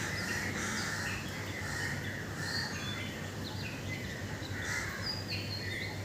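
Several wild birds calling and chirping, with many short chirps and whistles of varied pitch overlapping, over a steady low hum.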